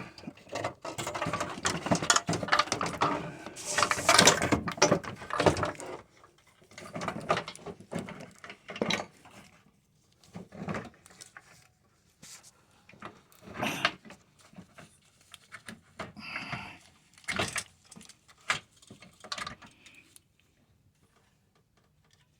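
Clattering and knocking of a car radiator and its surrounding parts being handled and set back into place, busy and continuous for the first six seconds, then scattered separate knocks and clicks, falling quiet near the end.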